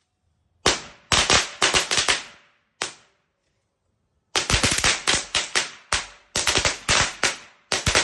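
Firecrackers going off in sharp bangs: one bang under a second in, a quick cluster of bangs, another lone bang, then from about four seconds a rapid run of bangs, several a second.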